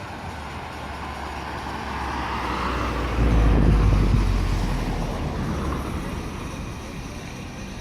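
A car driving past with a low engine note, building to its loudest about three seconds in and then fading away.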